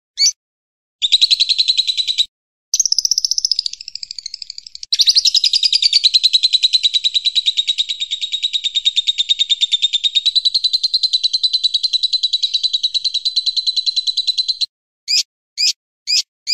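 Recorded birdsong: a small songbird's long, rapid trill of evenly repeated high notes, broken by short pauses, with a few separate short chirps at the start and near the end.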